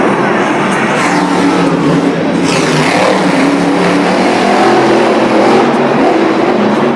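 Monster truck engines running loud and revving, a dense steady roar with some rises in pitch as the throttle opens.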